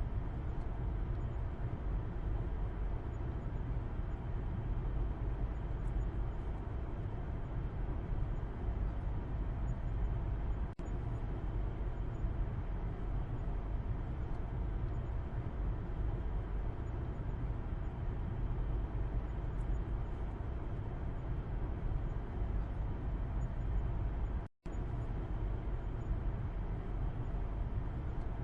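Steady road noise in a moving car's cabin as heard from the back seat: a constant low rumble of tyres and engine. The sound drops out for a split second twice, about 11 and 25 seconds in.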